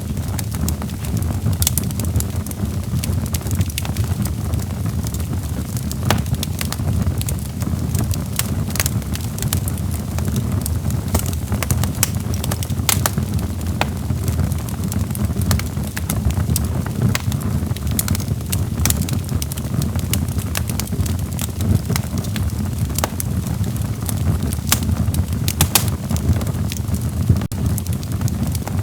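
Wood logs burning in a fireplace: a steady low rumble of the flames with frequent, irregular crackles and pops.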